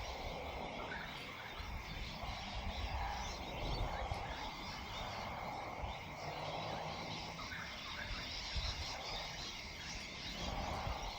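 Outdoor evening ambience: a steady low rumble and hiss with a thin continuous high tone, and frogs calling faintly.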